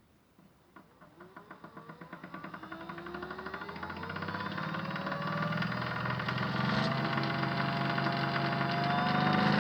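Modified Miele W1 toy washing machine's small electric motor spinning the drum up: a whine that rises steadily in pitch and gets louder, with a rapid pulsing that speeds up as it goes.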